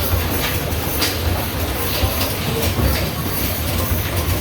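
Basketballs rolling and rumbling down an arcade basketball machine's return ramp, with irregular knocks and thuds of the balls.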